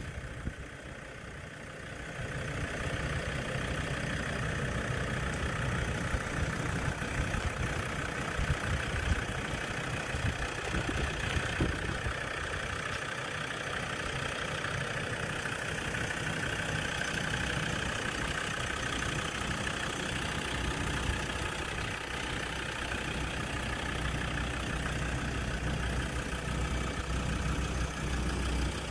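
Land Rover Discovery's engine idling steadily; it gets louder about two seconds in.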